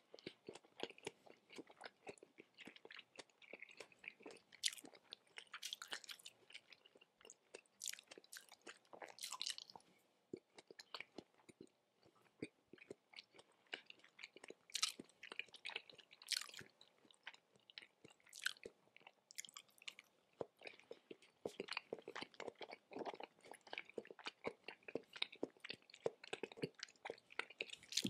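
Close-miked chewing of raw tuna sashimi: many short, irregular mouth clicks and smacks.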